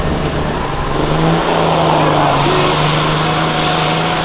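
Semi truck's diesel engine held at high revs as the turbocharger spools up to build boost before a pull. Its whine rises in pitch over the first two seconds or so, then holds high over the loud, steady engine noise.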